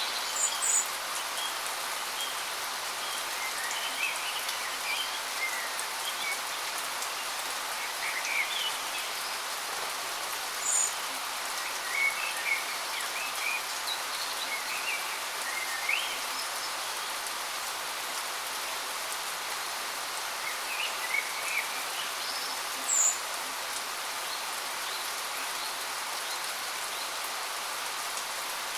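Steady rushing water of a waterfall, with short high bird chirps scattered every few seconds over it.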